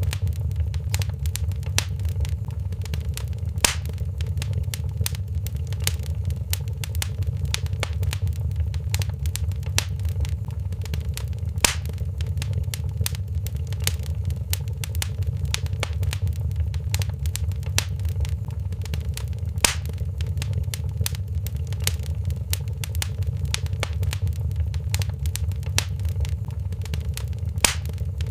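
Wood fire crackling in a fireplace: dense small crackles over a steady low rumble, with a sharper, louder pop about every eight seconds.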